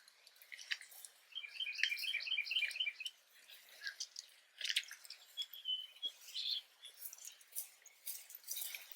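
A bird chirping: a quick, even run of short high notes lasting under two seconds, followed by scattered faint clicks and one short whistled note around the middle.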